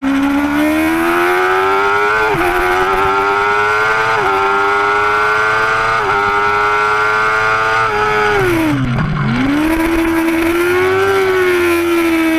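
2005 Yamaha R6's inline-four engine at high revs, its pitch climbing through the gears with three quick upshifts about two, four and six seconds in. About eight seconds in the revs fall steeply to a low note, then climb again and ease off near the end.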